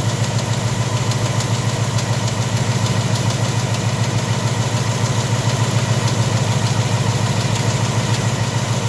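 2018 Mustang GT's 5.0-litre V8 idling steadily, with a deep, even hum.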